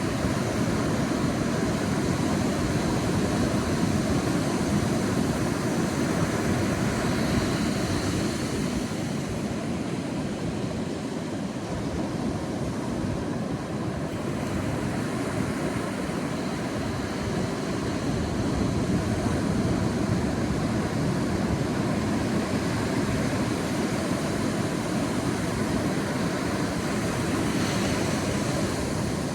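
Sea waves breaking and washing on a beach as a steady rushing surf, swelling and easing slowly.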